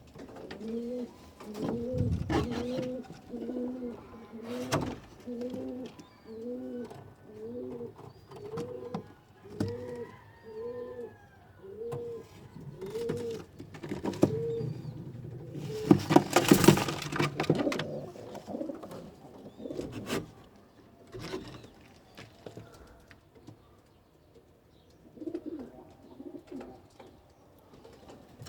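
Pigeon cooing in a long run of repeated arched notes, about one a second. About halfway through comes a loud burst of rustling and knocks, and a few fainter coos follow near the end.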